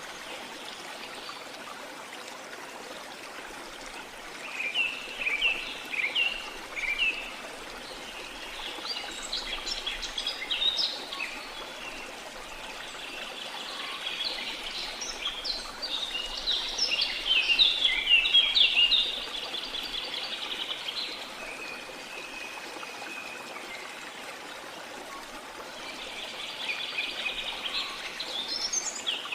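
Steady rush of falling water from a waterfall, with tropical forest birds calling over it in several bouts of quick chirps and trills, the longest and loudest stretch in the middle.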